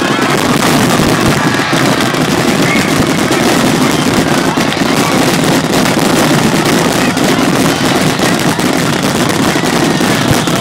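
Starmine fireworks finale: a rapid-fire barrage of shells launching and bursting, so many reports packed together that they merge into one continuous crackling rumble. It starts suddenly and stays loud throughout.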